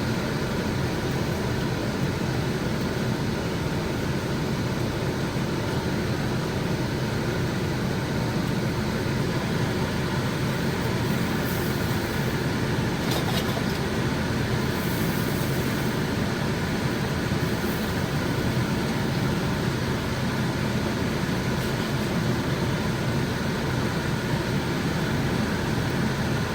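Steady, even noise from the stove while a bacon pancake cooks in the pan, with a few faint crackles around the middle.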